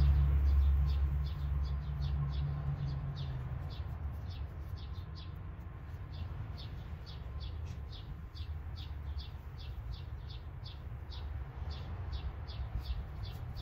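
A small bird chirping over and over, short high chirps at about three a second. A low rumble fades away over the first few seconds.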